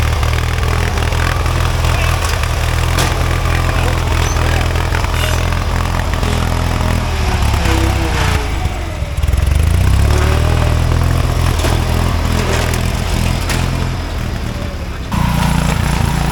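Small riding lawn mower engines running loudly and steadily, with a surge in engine speed about nine seconds in. Near the end the sound switches abruptly to a different, higher-pitched engine note.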